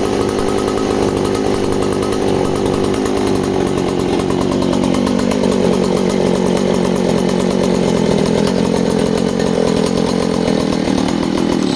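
A 1967 Jobu two-stroke chainsaw engine running steadily at a steady idle, its note dropping slightly about halfway through.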